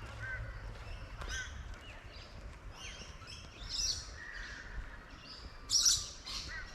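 Several birds chirping and calling, with a louder burst of calls about six seconds in, over a low rumble.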